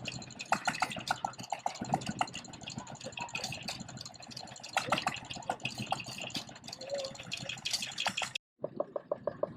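Vintage stationary engine running, a rapid string of exhaust knocks with voices mixed in. Near the end the sound drops out for a moment and another engine with an even, steady beat takes over.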